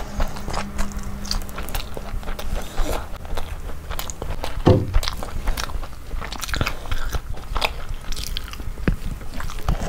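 Close-miked chewing and biting of tandoori roast chicken: irregular crunches and wet mouth clicks, with one louder low thud about halfway through.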